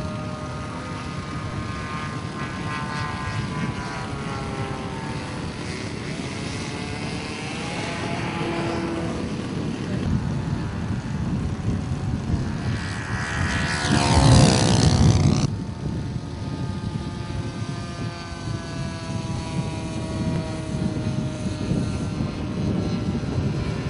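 Propeller engine of a radio-controlled model airplane in flight. Its pitch slowly rises and falls as it flies, and it is loudest on a close pass about fourteen seconds in, which breaks off suddenly.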